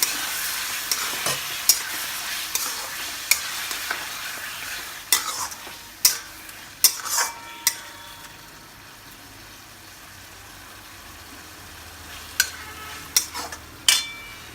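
Chicken pieces and fried potatoes sizzling in oil and spice paste in a kadai while a spatula stirs them, knocking and scraping against the pan. The sizzle is loudest at first and dies down after about six seconds, with more knocks of the spatula near the end.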